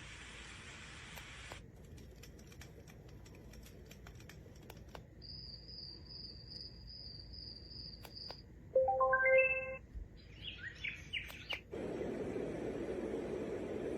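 Portable white noise machine stepping through its built-in sounds. A hiss cuts off about a second and a half in, then a faint pulsing high tone. Next comes a short, loud run of rising tones and a few bird chirps, then a steady low rushing noise from about twelve seconds.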